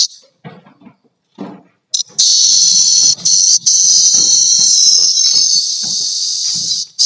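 Brown cicada screaming: a short high-pitched buzz at the start, then a loud, continuous buzz from about two seconds in that breaks off briefly once and stops near the end, followed by one more short burst.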